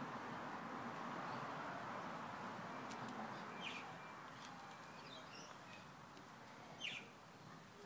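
Faint steady background hiss that drops about halfway through, with a few short bird chirps, the loudest near the end.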